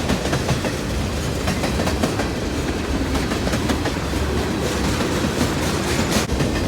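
Freight cars of a Norfolk Southern train rolling past, steel wheels clicking over the rail joints over a steady rumble.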